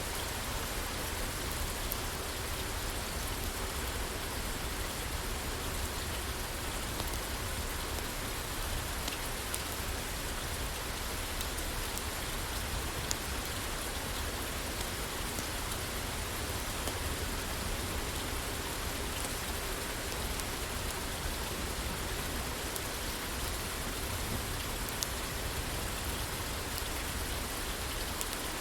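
Steady rain on a roof, with a few faint, sharp clicks scattered through it.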